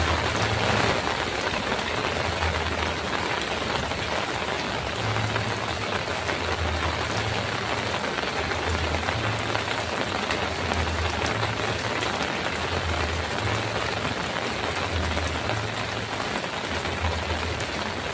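Heavy rain falling steadily on a metal roof, a little louder in the first second. Under it a low hum swells and fades about every two seconds.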